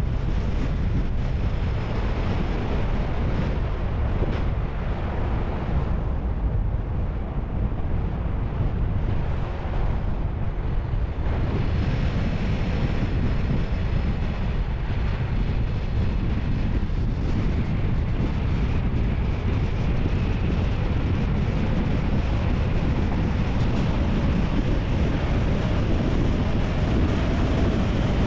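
Steady wind buffeting the microphone, a continuous rumbling noise.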